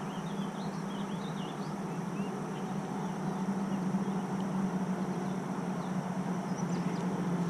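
Small birds chirping in short scattered notes over a steady low hum and hiss.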